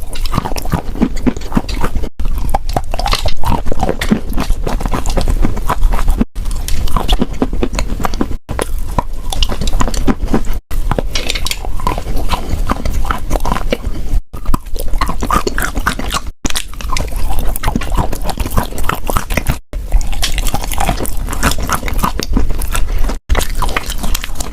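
Close-miked chewing and crunching of edible chalk, dense crackly bites, broken by brief dropouts every few seconds where short takes are spliced together.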